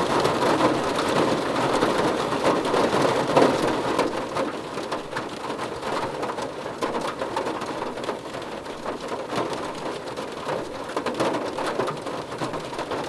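Heavy rain falling steadily on a hard surface, with many separate drops ticking through the downpour. It eases slightly after about four seconds.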